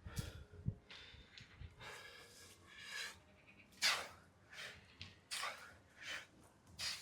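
Heavy breathing of a person exerting hard during a bodyweight workout, with short forceful exhalations through nose and mouth about once a second. Two dull low thuds come in the first second.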